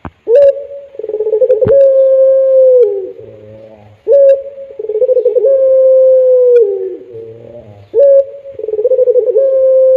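Puter pelung dove (domestic Barbary dove) cooing in three repeated phrases about four seconds apart. Each phrase is a short higher note, then a rolling warble, then a long drawn-out note that drops at its end. There is one sharp click about a couple of seconds in.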